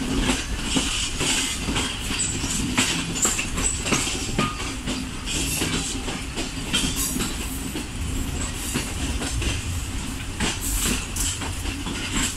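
Passenger train heard from aboard a moving coach as it leaves the station: a steady rumble of running gear with irregular clacks as the wheels cross rail joints and points.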